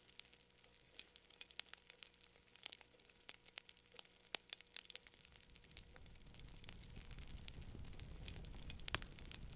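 Fire crackling with many sharp, irregular pops. From about five seconds in, a low rushing sound of the flames builds and grows louder, with one loud pop near the end.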